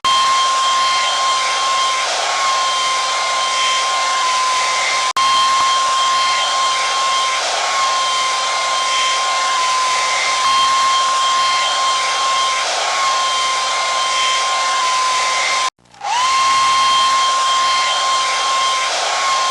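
Hair dryer blowing steadily, a loud rush of air with a high motor whine. It cuts out for a moment about three-quarters of the way through, and its whine rises back up to pitch as it comes back.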